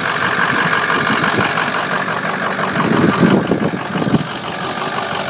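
Ford 6.0 Power Stroke V8 turbo-diesel idling steadily, with a fine regular ticking through the engine sound; the owner says it might have a bad injector or two.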